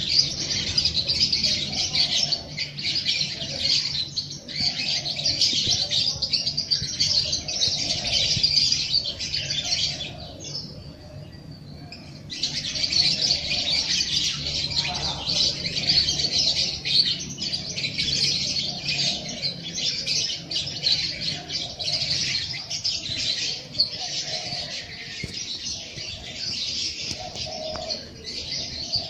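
A dense chorus of small songbirds chirping and twittering continuously, with a break of about two seconds roughly a third of the way through.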